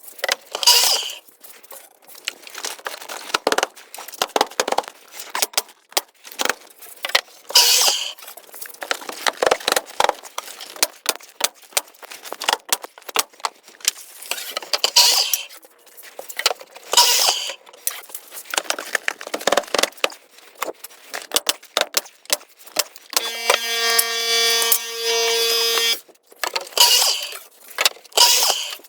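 Carpentry work on cedar tongue-and-groove ceiling boards: a run of clatter and knocks with several sharp, bright nailing shots spread through. Near the end a motor whines steadily for about three seconds.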